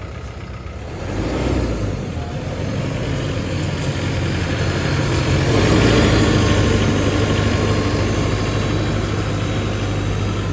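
Mahindra 105 tractor's diesel engine running, revved up about a second in and again to a peak around the middle, then easing back toward idle near the end.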